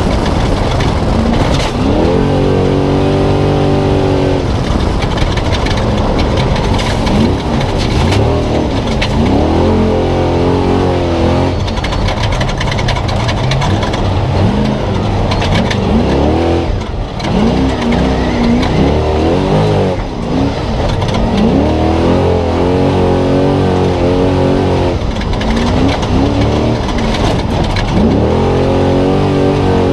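A Spec Trophy Truck's V8 engine running hard at race pace, its revs climbing and falling back over and over through the gears, with brief lifts off the throttle twice in the second half. Scattered clicks and rattles from the truck over rough ground ride along with it.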